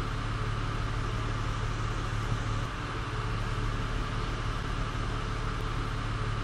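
Car engine idling steadily, heard from inside the cabin as a constant low hum under an even hiss.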